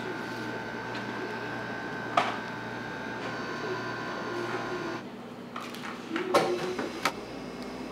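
A steady machine hum that cuts off about five seconds in, with a sharp knock about two seconds in and a short run of knocks and clatter near the end, as of work in a kitchen.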